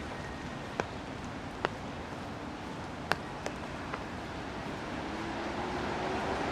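Steady city street background with a few sharp, irregular taps, then a motor vehicle approaching and getting louder over the last second or two, its engine tone rising.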